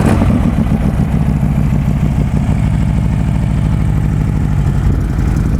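Harley-Davidson Road King's V-twin engine idling steadily through a two-into-one Freedom performance exhaust, shortly after being started.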